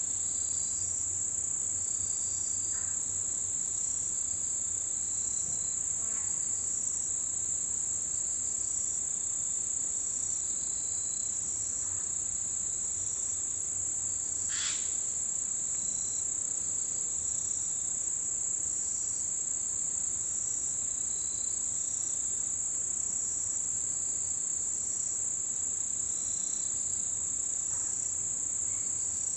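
Chorus of autumn insects such as crickets: a steady, loud high-pitched trill with a second insect pulsing regularly beneath it at about one and a half beats a second, and scattered short chirps. A single brief sharp call cuts through about halfway through.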